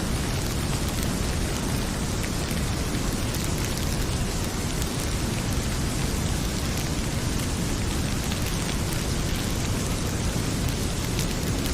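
Heavy rain pouring steadily, with faint scattered crackles of a wood fire.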